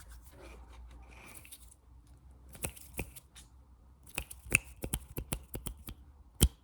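Soft rustling, then a string of sharp, irregular taps, with the loudest tap near the end.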